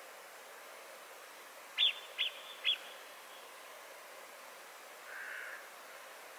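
Outdoor ambience: a faint steady hiss. About two seconds in, a bird gives three short, high chirps in quick succession. A softer call comes near the end.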